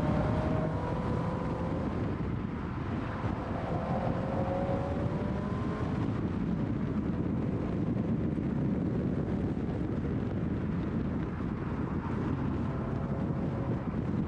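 Scion FR-S's 2.0-litre flat-four engine driven hard along a winding road, with the engine note rising briefly a few times in the first half, under steady wind and tyre noise rushing past the car's outside.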